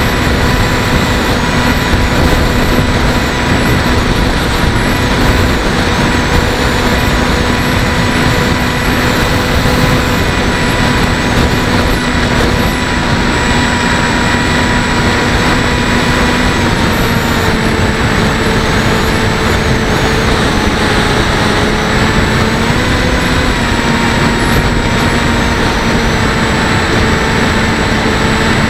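Bixler 1.1's electric motor and pusher propeller running with a steady whine in flight, with rushing wind noise over it, heard from the camera on the plane. The whine drops a little in pitch about 17 seconds in and rises again a few seconds later.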